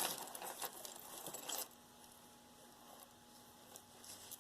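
Metal box-chain necklaces being handled: a run of small clinks and rustling for about the first second and a half, then near quiet with a faint steady hum and a couple of soft clicks.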